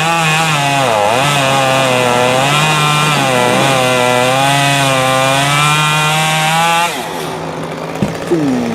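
Gas chainsaw cutting through a big limb at full throttle, its pitch dipping and recovering as the chain loads up in the wood. About seven seconds in it drops back to idle, and a single thump follows about a second later.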